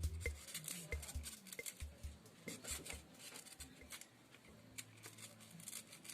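Scissors snipping at dry coconut husk fibre, a quick irregular run of short cuts, while shaping a coconut-husk bird carving.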